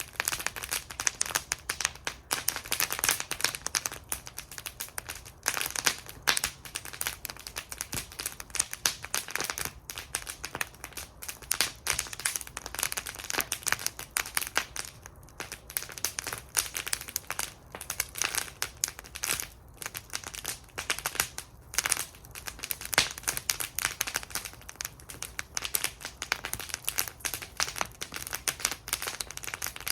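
Wood fire burning in a fire bowl, crackling steadily with many irregular sharp pops and snaps.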